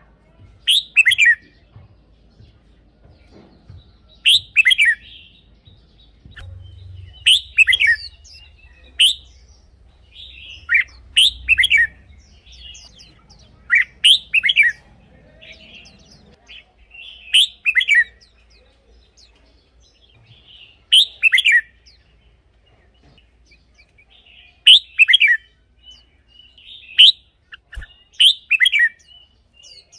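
Red-whiskered bulbul singing: short, loud warbled phrases that repeat every three to four seconds, with softer single notes between them.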